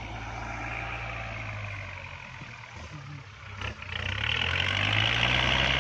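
Kubota MU4902 tractor's diesel engine running steadily under load while ploughing in third gear; it grows louder about four seconds in.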